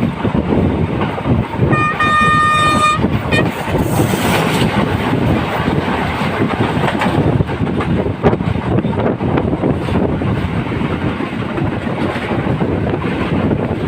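Train running on the rails with a steady rumble and clatter. About two seconds in, the train horn sounds once for about a second, followed by a brief short toot.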